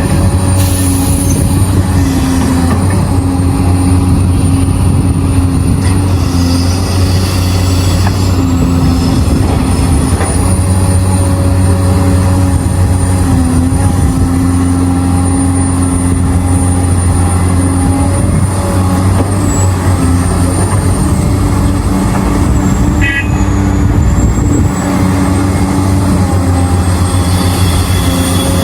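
Heavy diesel engines of mining excavators and dump trucks running steadily: a deep, even drone with a faint high whine that wavers in pitch.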